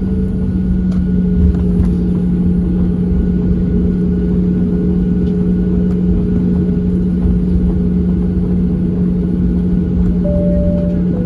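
Steady cabin noise of a Boeing 737-700 on the ground before takeoff: its CFM56 engines are running at idle, giving a constant low hum over a rumble. A brief higher tone sounds near the end.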